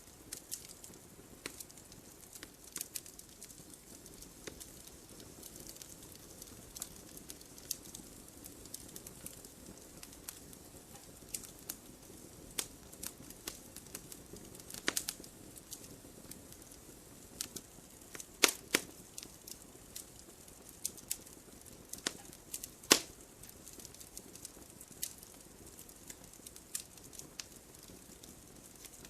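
Burning wood fire crackling, with irregular sharp pops and snaps over a soft low hiss of flames; the loudest pops come about 15 s, 18.5 s and 23 s in.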